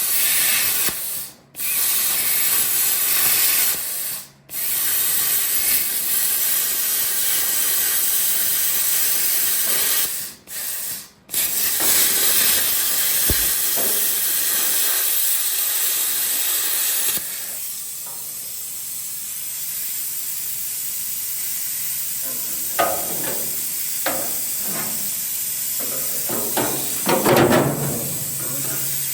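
Plasma cutter hissing as it cuts through rusted sheet steel, stopping briefly four times. About two-thirds of the way in it drops to a quieter steady hiss, with a few knocks near the end.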